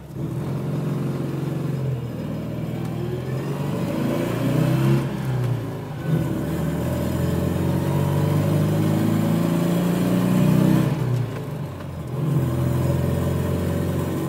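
Panhard PL17's air-cooled flat-twin engine pulling the car away and accelerating, its pitch climbing, dropping at a gear change about five seconds in and again near eleven seconds, then climbing once more. A metallic rattle rings through it, from the loose top cover of the air filter.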